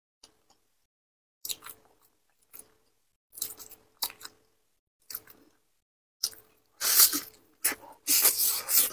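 A person chewing and biting into a fried, noodle-coated patty, in separate short bursts of mouth sounds with pauses between. The sounds grow louder, and the loudest come in a dense cluster about seven seconds in, as she takes a fresh bite.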